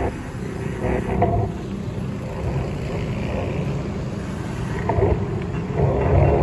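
Wind buffeting the microphone and road noise from a moving bike, a steady low rumble, with faint voices now and then.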